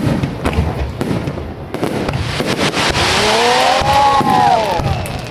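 Fireworks display going off: a run of sharp bangs and crackles, then a hissing burst about two seconds in with several whistles that rise and fall in pitch.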